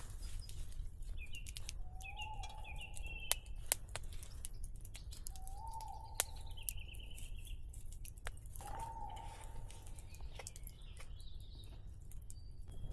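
Forest birds calling: a lower call about a second long repeated three times a few seconds apart, with higher chirping between, over scattered sharp clicks.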